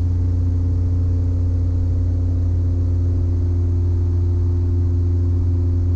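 Twin-engine Piper Apache heard from the cabin: a steady, loud engine drone with several steady tones above it. The right engine is at full power and the left is pulled back to idle, with the aircraft slowing toward the speed where directional control is lost.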